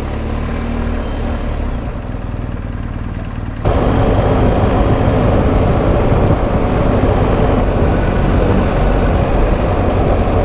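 BMW R1250 GS Adventure's boxer-twin engine running on the move, heard with road and wind noise from the riding camera. It starts steady and fairly low, then the sound jumps up abruptly a few seconds in and stays loud.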